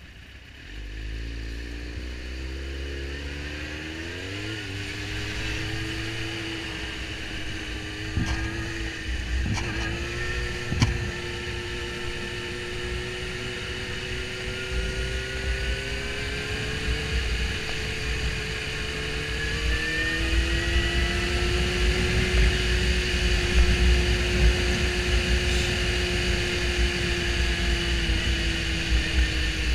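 Suzuki GSX-R750 sport bike's inline-four engine pulling away from a stop, revs climbing through the gears with a couple of shifts about ten seconds in, then running at steady cruising revs, with wind noise on the helmet-mounted microphone.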